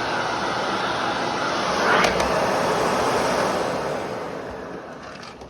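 Vacuum cleaner motor running with a steady whoosh. A click comes about two seconds in, and then the motor winds down and fades away over the last few seconds, as when the vacuum is switched off.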